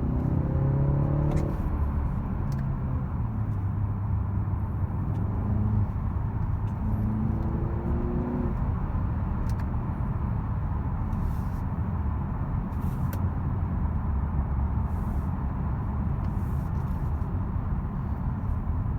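BMW 330i's 2.0-litre turbocharged four-cylinder accelerating. It drops in pitch with an upshift right at the start, climbs again briefly a few seconds in, then settles into a steady cruise where low road and tyre rumble takes over.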